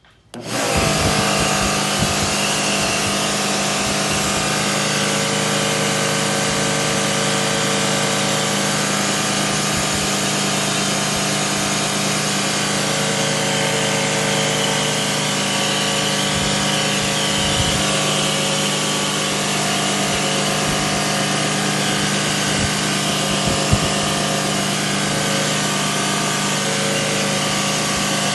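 An electric motor running steadily at one constant speed, a loud hum and whine with no change in pitch, switched on at the start and cut off sharply at the end.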